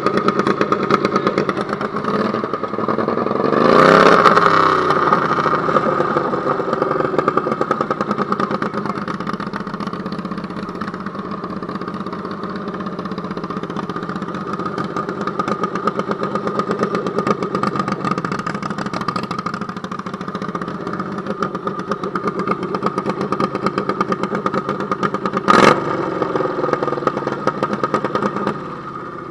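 Garden tractor pulling engine running hard under load on a hook, swelling to its loudest with a rising and falling pitch about four seconds in, then running steadily. A single sharp crack sounds a few seconds before the end, and the engine sound drops away just after.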